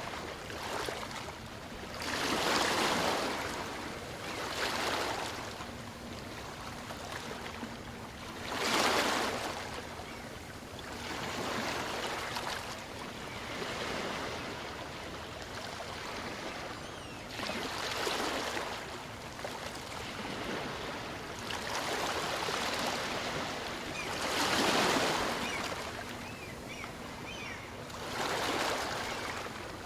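Small waves of a calm sea washing in and out on a beach, a swell of surf rising and falling every few seconds, the biggest breaking about 9 and 25 seconds in.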